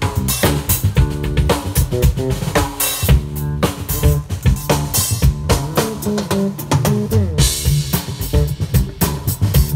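Live band playing funk, with the drum kit to the fore: kick drum, snare and rimshots driving a steady beat over a low bass line.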